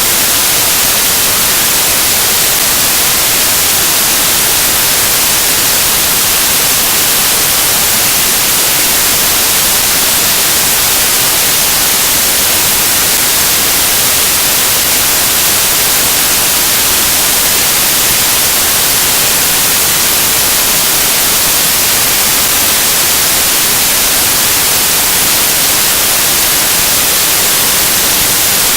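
Loud, steady static hiss like white noise, brighter toward the high end, with no change and no speech.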